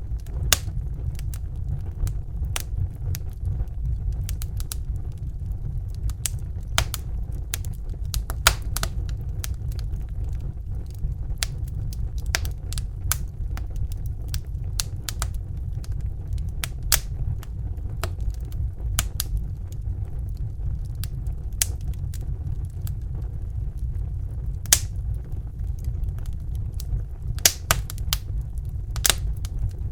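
Fire crackling, with irregular sharp pops and snaps over a steady low roar, likely a Bunsen burner flame.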